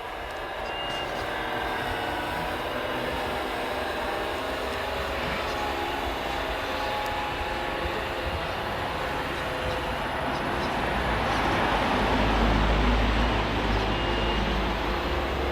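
Radio-controlled scale model vehicles running, a mix of several steady motor and gear whines, getting louder about eleven seconds in for a few seconds.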